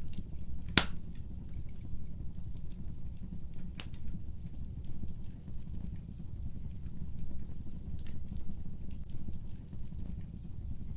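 Fire burning in a fireplace: a steady low rumble of flames with scattered crackles and pops, the sharpest pop about a second in and another at about four seconds.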